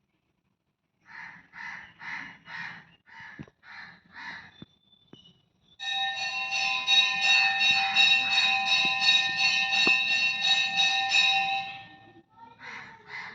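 Crows cawing, a run of about eight harsh caws, then a metal bell ringing loudly and steadily for about six seconds with a slight pulsing, then a few more caws near the end.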